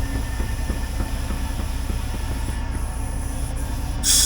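Trailer air-suspension leveling valve passing air as the airbags inflate: a steady hiss over a low, steady engine idle, with a short, loud burst of escaping air near the end.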